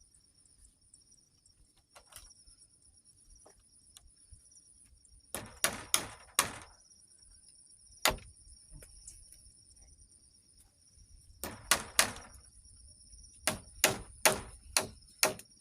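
A tool striking wood in quick groups of blows while a shelter is being built: four sharp blows about a third of the way in, a single blow, then groups of four and five near the end. A steady high two-tone hum runs underneath.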